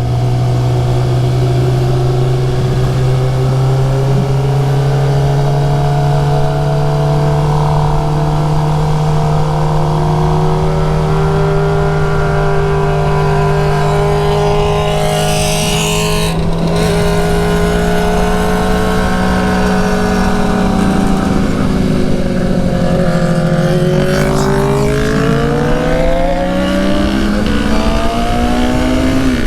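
Suzuki GSX-R750 inline-four engine running at a steady, moderate pitch under wind noise, the note creeping slowly higher. Near the end it drops away as the throttle comes off, then climbs again as the bike picks up speed.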